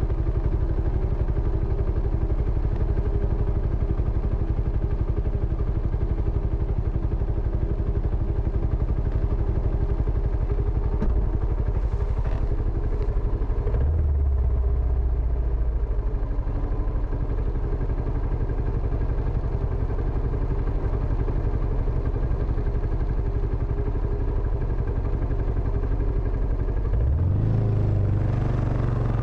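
Benelli Imperiale 400's air-cooled single-cylinder engine running steadily through its stock exhaust, an even rapid beat of firing pulses. A deeper low rumble swells briefly about halfway through and again near the end.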